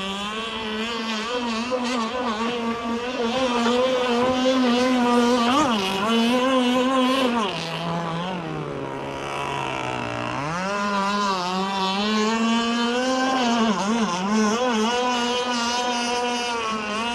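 Zenoah two-stroke gas engine of an RC speedboat running at high throttle, its pitch wavering up and down, easing off for a couple of seconds midway, then climbing again. The boat is not trimmed right: the run is too unsettled for a speed test, and the owner means to lower the trim tabs and stinger.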